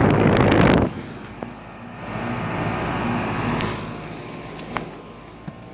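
Running Goodman central air conditioner condensing units: a loud rush of air from the condenser fan for about the first second, which drops off suddenly, leaving the steady hum of the scroll compressor that swells and fades.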